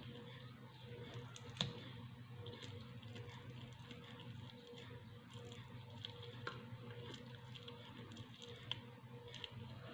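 A person eating quietly: scattered small clicks and soft wet squishy sounds, with a sharper click about one and a half seconds in and another near the end, over a steady low hum.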